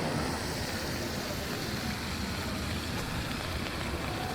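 Steady road traffic noise: a continuous low rumble and hiss of passing vehicles.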